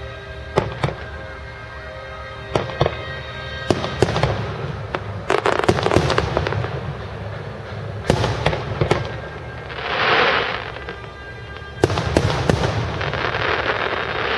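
Fireworks display: aerial shells bursting in a string of sharp, irregular bangs, with two longer crackling hisses from clustered effects about two-thirds of the way in and near the end.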